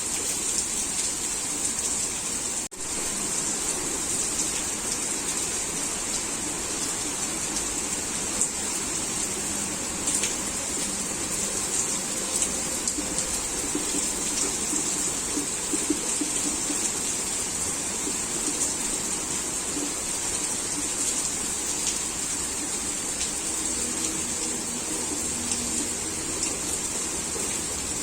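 Heavy rain falling: a steady hiss with scattered taps of drops. There is a momentary gap in the sound about three seconds in.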